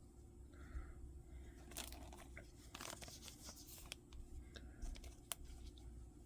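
Faint handling of Pokémon trading cards and their foil pack wrapper: soft, scattered crinkling rustles and a few light clicks.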